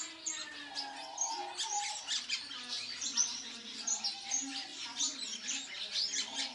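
Many caged birds chirping and chattering at once, a dense, unbroken mix of short high chirps with lower calls beneath.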